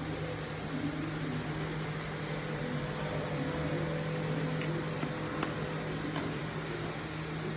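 Steady low electrical hum of a running appliance, with a few faint clicks a few seconds in.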